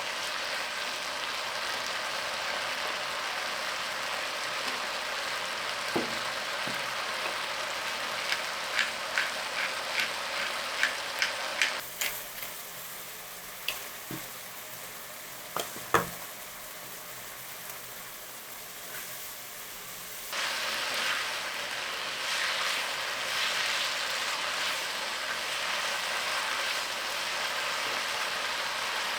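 Food sizzling in hot oil in a pan, with a run of light clicks and taps of a utensil against the pan about eight to twelve seconds in and a sharper knock about sixteen seconds in. The sizzle drops away at about twelve seconds and comes back strongly about twenty seconds in.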